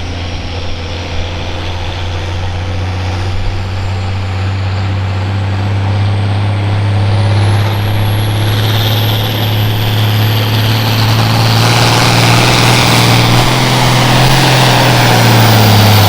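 A pulling vehicle's engine running hard under load during a pull: a steady heavy drone that grows louder, with a high whistle climbing in pitch through the second half.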